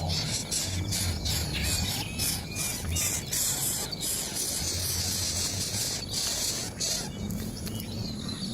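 Outdoor ambience of insects buzzing in high, stop-start pulses, with a few faint bird chirps and a low hum underneath.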